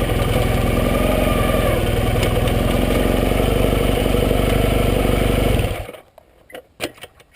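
Yamaha XS650 parallel-twin engine running steadily at idle, then switched off about six seconds in, followed by a few light clicks.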